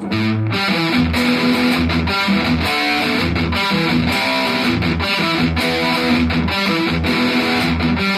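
Semi-hollow electric guitar, a Chinese replica of a Gibson ES Les Paul, played loud through high-gain distortion as a steady chugging riff. The hollow body is starting to whistle with feedback.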